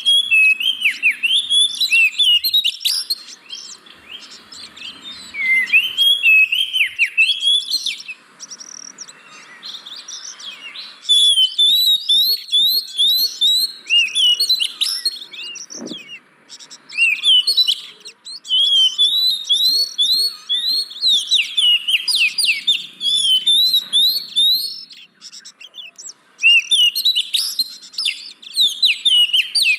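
Oriental magpie-robin (kacer) singing in bursts of several seconds, each a rapid run of varied whistled and chirping notes, with short pauses between bursts.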